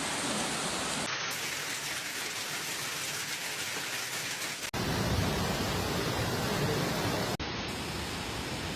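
Steady rushing noise of storm water: heavy rain and running floodwater. It breaks off abruptly twice, about halfway through and near the end, and is louder and fuller in the low end after the first break.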